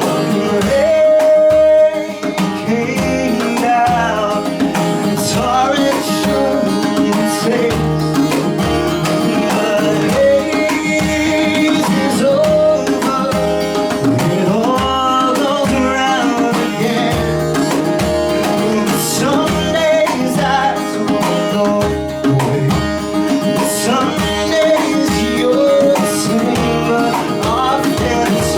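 A band playing a guitar-led song with a steady beat and a melodic lead line winding over it.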